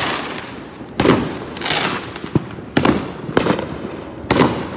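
Fireworks going off: a series of sharp bangs, about five, coming every half second to a second, some trailed by crackling.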